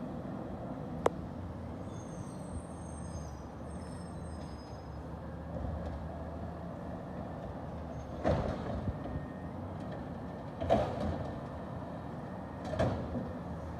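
Garbage truck engine running steadily during yard-waste collection, with a sharp click about a second in and three loud bangs spaced a couple of seconds apart in the second half.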